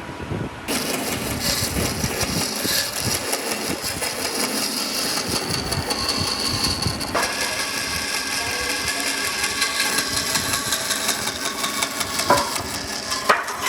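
A power tool running in a woodworking shop. It starts about a second in and its tone shifts about halfway through, with a couple of sharp knocks near the end.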